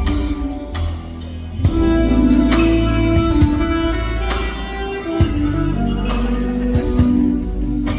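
Live band music: a smooth soprano saxophone melody holding long notes over keyboard and bass accompaniment, with a few drum hits.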